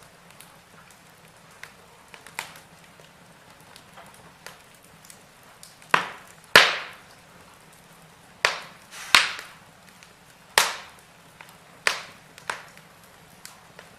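Wood fire burning in a fireplace: a faint steady crackle broken by sharp pops and snaps of the burning logs, a handful of loud ones from about six seconds in, the loudest about six and a half seconds in.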